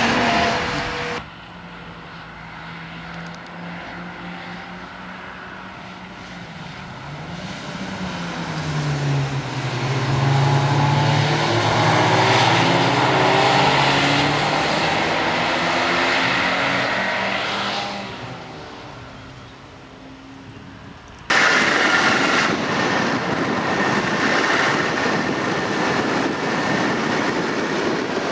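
Ferrari sports car engines passing on a race circuit, several cars together. Their note swells and drops in pitch as they go by, then fades. Near the end it cuts suddenly to a louder, even rushing noise.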